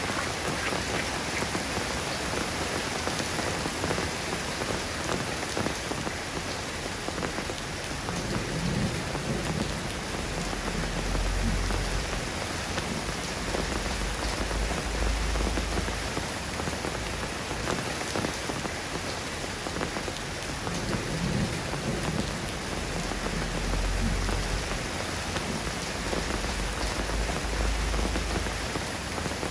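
Steady soft rain falling, a dense even patter, with two long low rumbles swelling underneath, about eight seconds in and again about twenty-one seconds in.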